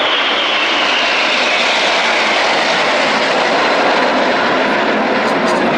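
Airbus A400M's four turboprop engines running loud and steady, with a high whine that falls slowly in pitch.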